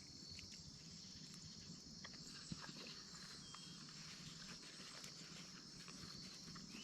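Faint, steady chorus of crickets and other night insects, with a few quiet clicks and one small knock about two and a half seconds in.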